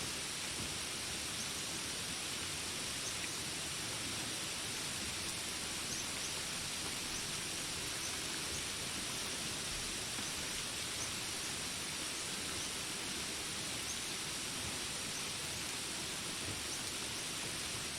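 Steady rain falling as an even hiss, with faint, short, high chirps scattered through it every second or two.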